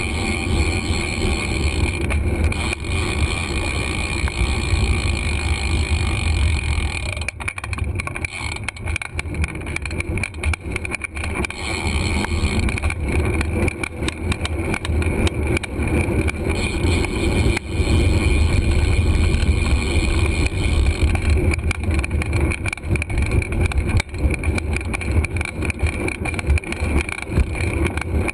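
Steady low rumble of wind and road noise on a GoPro camera while riding a bicycle, rising and falling in level.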